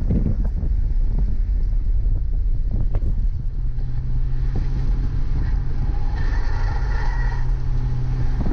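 BMW E30 M3's four-cylinder engine heard from inside the cabin while driving at speed, mixed with wind and road noise; its note settles and holds steady a few seconds in.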